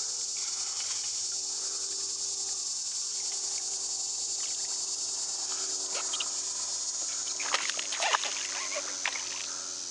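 Steady high insect chorus of crickets or similar summer insects, with a few short sharp splashing or knocking sounds about three-quarters of the way through.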